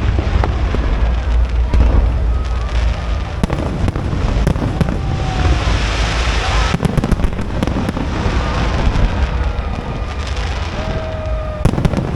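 Aerial fireworks display going off without a break: a continuous deep rumble of booming shells with crackling, and clusters of sharp bangs about seven seconds in and again near the end.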